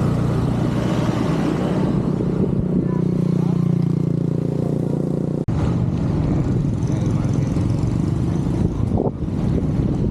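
Wind rushing and buffeting over the camera microphone while cycling along a road, a steady low rumble with a brief sharp break about five and a half seconds in.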